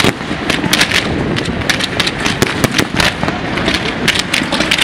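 Fireworks display going off overhead: a dense, irregular string of sharp bangs and pops from rockets and bursting shells, several a second.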